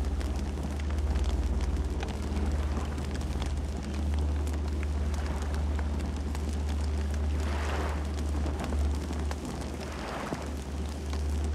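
Campfire burning: a steady low rumble with scattered small crackles and pops, and two brief rushing swells about eight and ten seconds in.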